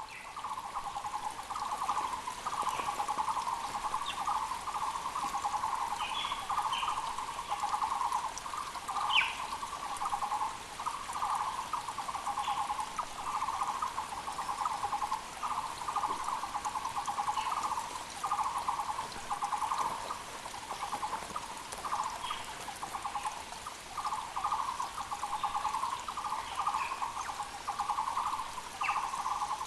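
Muller's barbets (Taiwan barbets) calling without a break in fast strings of repeated low notes, several overlapping. Short higher chirps from other birds come in now and then, over the faint steady rush of a mountain creek.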